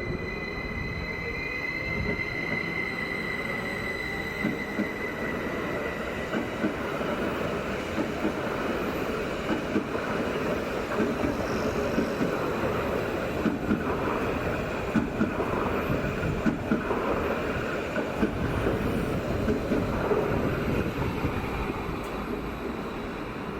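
A train rolling through the station: a high steady wheel squeal in the first few seconds fades away, and wheels clatter over rail joints and points in a run of irregular clacks.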